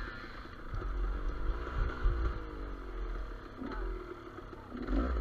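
Two-stroke enduro motorcycle engine, a Gas Gas EC200, running and revving up and down on the trail, with low wind rumble on the microphone.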